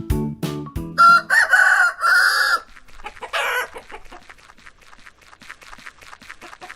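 A children's music jingle ends about a second in, then a rooster crows loudly, a long call of several parts. A shorter call follows, then a run of soft, rapid, short clucking notes.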